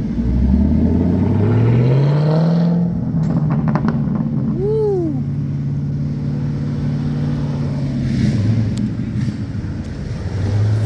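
Car engine accelerating, its note rising over the first few seconds, then holding a steady drone. A short tone rises and falls just before the middle.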